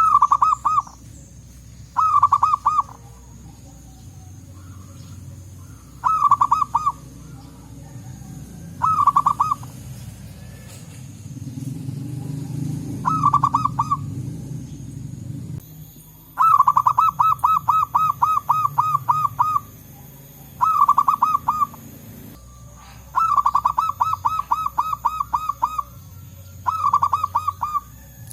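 Zebra doves (perkutut) calling: short phrases of rapid staccato cooing notes, repeated every few seconds. About halfway through there is a longer run of about a dozen notes.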